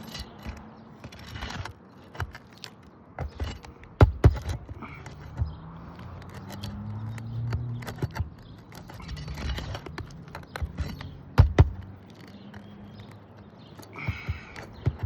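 Hand tools knocking and scraping on brittle asphalt roof shingles while a damaged shingle is worked loose. There are irregular sharp knocks, the loudest a pair about four seconds in and another pair past eleven seconds, with scraping and rustling between them.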